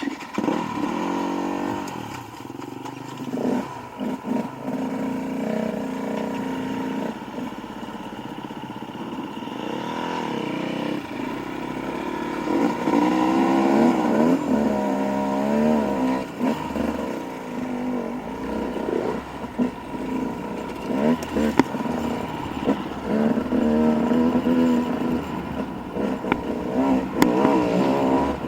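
Dirt bike engine running as it is ridden, revving up and down over and over, its pitch rising and falling with the throttle.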